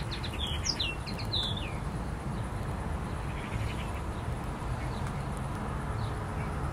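A small songbird singing a short phrase of quick, falling chirps in the first couple of seconds, then a fainter twitter about halfway through, over a steady low outdoor background hum.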